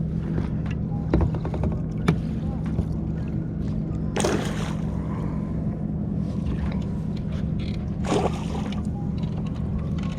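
Kayak on open water with a steady low hum running throughout, broken by two short noisy bursts, one about four seconds in and one about eight seconds in.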